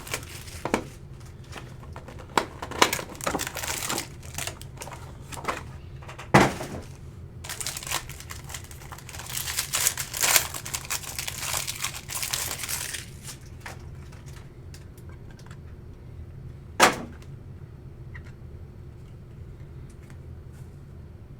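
Trading-card pack being ripped open by hand: crinkling and tearing of the wrapper with scattered clicks and taps, the crinkling heaviest about ten seconds in. Two sharper knocks stand out, one about six seconds in and one about seventeen seconds in, over a faint steady low hum.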